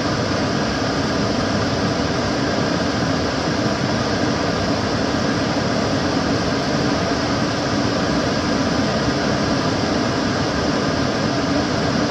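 Kitchen cooker hood extractor fan running steadily: an even rush of air with a low hum, unchanging throughout.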